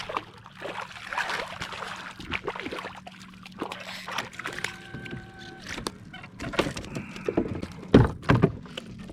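Scattered knocks, clicks and rattles on a kayak with light water sloshing, as a hooked fish is brought in and handled. A brief steady whine sounds about halfway through.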